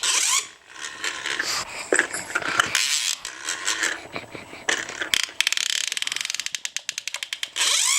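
Plastic toy car being handled, scraping and knocking. Then its mechanism gives a fast run of sharp clicks for a couple of seconds.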